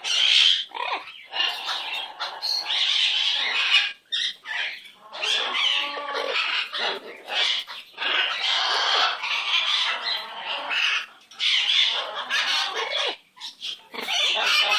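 Pet parrot squawking: a long run of short, harsh calls, some with bending pitch, broken by brief pauses.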